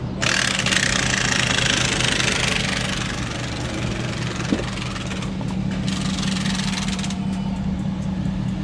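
A steady machine hum, engine- or motor-like, with a hiss over it that comes and goes and a single short tick about halfway through.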